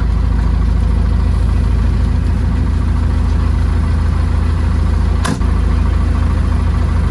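Diesel engine of a tractor-backhoe idling steadily, with a single sharp clank about five seconds in.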